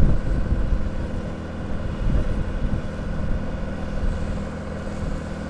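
Bell 412EP helicopter's twin turbine engines and rotor running on the ground: a steady whine made of several held tones over an uneven low rumble.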